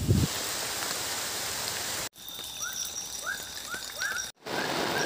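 Forest ambience in three abruptly cut pieces. First a steady rushing noise, then birds calling in short rising chirps over a steady high insect drone, then the rushing returns under more chirps and pulsing insect calls.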